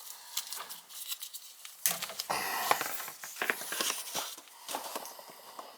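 Coloured marking tape being pulled, torn and wrapped around a furnace wire to tag it: crinkly rustling with small clicks, light at first and busiest from about two seconds in.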